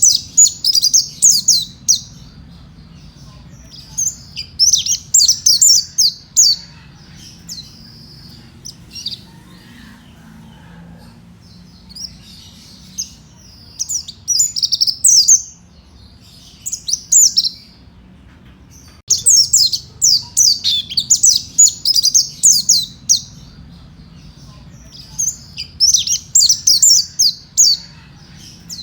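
Mountain white-eye (pleci monty) singing: rapid, high twittering phrases of one to four seconds, repeated with short pauses between them, over a faint steady low hum.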